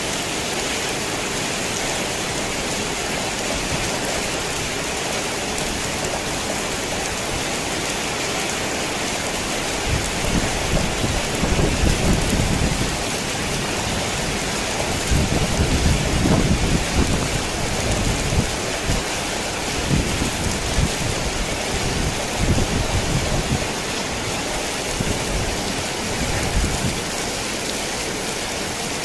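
Heavy rain drumming steadily on a worn tin roof. Thunder rumbles low and rolling from about a third of the way in until a little past the middle, loudest near the middle, then fades back to the rain alone.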